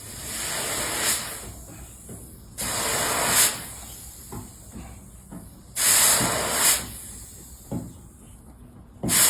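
Repeated hissing blasts, each about a second long and coming roughly every three seconds, with a fourth beginning right at the end. A few faint knocks fall between them.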